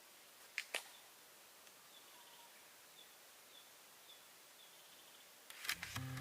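Quiet outdoor ambience with two sharp clicks just under a second in and a faint high chirp repeating about twice a second, like a distant bird. Acoustic guitar music begins near the end.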